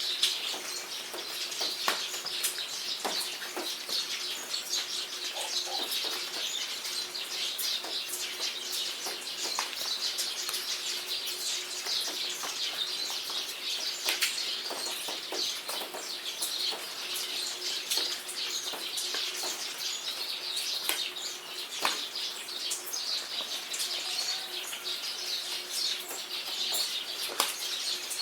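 Steady jungle rainfall with birds singing and chirping throughout, and scattered sharper drops standing out from the even hiss of the rain.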